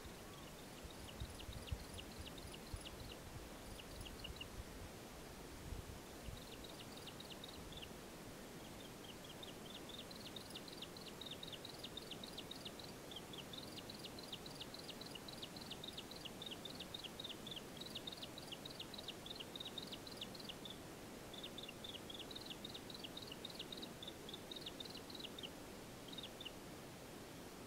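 Faint, high-pitched rapid chirping from a bird: quick short notes, several a second, in long bouts with brief gaps. A faint low rumble lies under the first few seconds.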